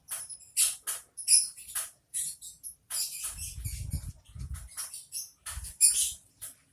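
Eurasian tree sparrows chirping: many short, high-pitched chirps in quick succession. A low rumble runs under them from about three seconds in, with another brief one a little later.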